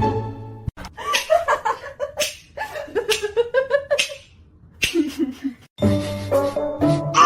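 Light background music with people laughing over it in short bursts.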